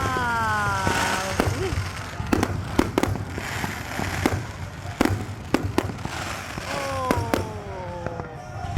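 Fireworks display going off: a string of sharp bangs and pops, with two long whistles falling in pitch, one at the start and one about seven seconds in.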